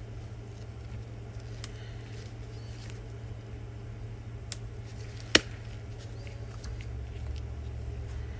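Faint clicks and one sharp snap about five seconds in, from handling a plastic car key fob, over a steady low hum.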